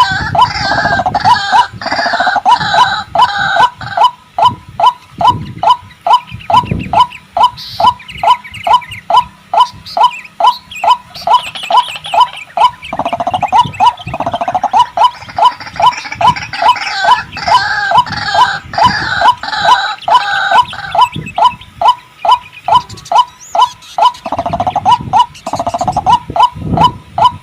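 White-breasted waterhen (ruak-ruak) calling: a monotonous string of short notes, about two a second, mixed at times with bursts of croaking, gurgling chorus. It is a recorded lure call.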